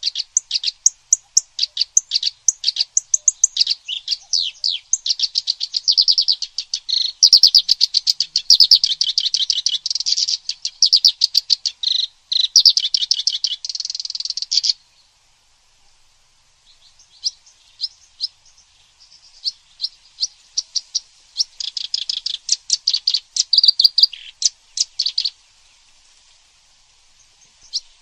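Recorded songbird song of kerak basi and cililin: fast, dense chattering trills of many quick high notes. The song breaks off about halfway through, starts again a couple of seconds later, and stops near the end.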